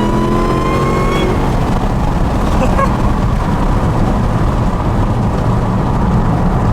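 Supercharged 6.2-litre Hemi V8 of a 2018 Dodge Challenger SRT Hellcat under full-throttle acceleration in its 700-horsepower mode. The engine note climbs in pitch, then breaks off about a second in, leaving a steady, loud rumble with road noise.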